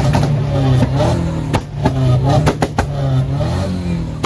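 Car engines revving, over a steady low drone, with a few sharp pops about a second and a half and two and a half seconds in.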